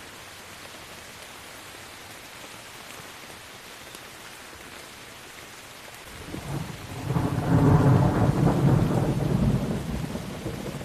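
Steady rain falling, then a roll of thunder builds about six seconds in, rumbles loudest for a couple of seconds and fades toward the end.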